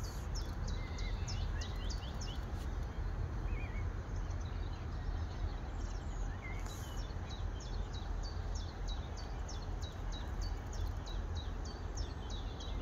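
A small songbird singing a long, steady string of short, high, downward-sliding notes, a few a second, over a steady low background rumble.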